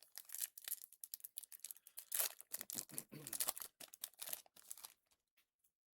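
A trading-card pack wrapper being torn open and crinkled, a dense run of crackling rustles that stops about five seconds in.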